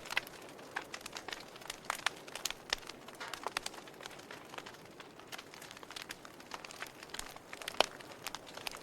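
Wood fire crackling in a fireplace: irregular sharp pops and snaps over a soft steady hiss, with one louder pop near the end.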